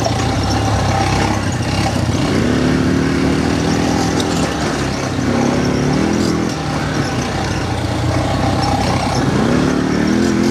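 Quad bike (ATV) engine running under throttle off-road, its pitch climbing as it revs up three times, about 2, 5 and 9 seconds in.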